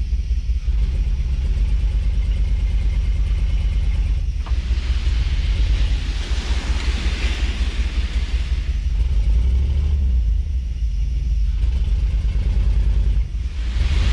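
Heavy-duty pickup-based dump truck's gasoline throttle-body-injected engine running with a loud, steady low rumble. A rushing hiss swells over it for a few seconds in the middle and again near the end.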